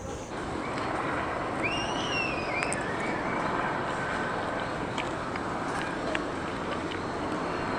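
Steady urban outdoor background noise, a wash of distant traffic, with one brief high, arching call about two seconds in.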